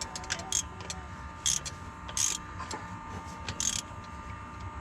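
A hand ratchet or wrench working the injector hold-down bolts: a few short metallic rasps and clicks at irregular intervals as the bolts are snugged down without being over-tightened.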